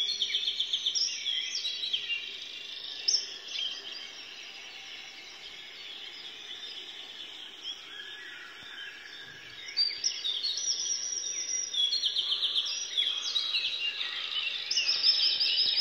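Several songbirds chirping and singing in short, overlapping phrases, busier in the first few seconds and again through the last few.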